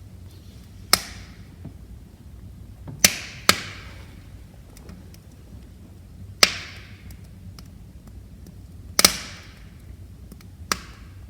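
Wood fire crackling: six sharp, loud pops from the burning logs, two of them close together about three seconds in, over a low steady rumble of the flames with faint small ticks between.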